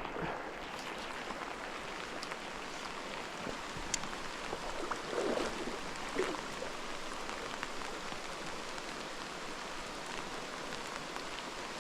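Steady rain falling, mixed with the rush of a creek, as an even hiss with a few sharper drop ticks.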